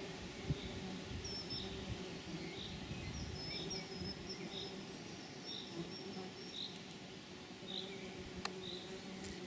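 A bird repeats a short high chirp about once a second, with a few longer high notes in the first half, over a steady low insect-like hum. Two sharp clicks come near the end.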